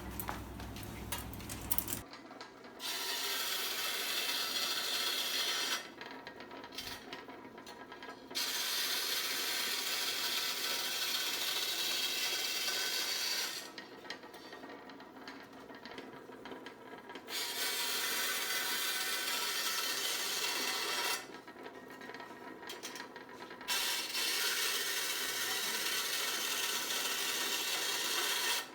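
A tool working the thin sheet metal of a square tin can, a steady rasping sound in four bursts of three to five seconds each with short pauses between them.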